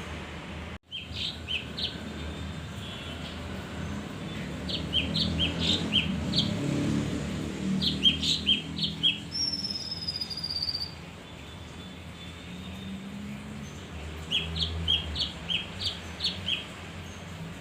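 Male kinoi songbird singing in short rapid bursts of high chirps, four phrases in all, with a single falling whistle about halfway through, over a low steady hum.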